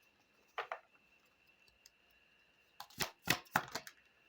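Oracle cards being handled and drawn from the deck: a brief card sound about half a second in, then a quick cluster of sharp snaps and clicks around three seconds in.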